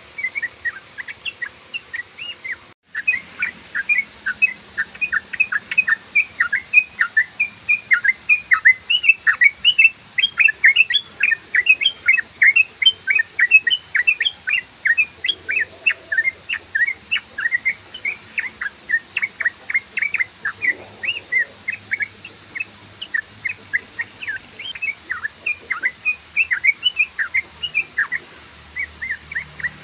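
Yellow-vented bulbul (trucukan) in rapid, continuous 'ropel' song: a fast unbroken run of short, mostly falling chirps, several a second. There is a brief gap just under three seconds in.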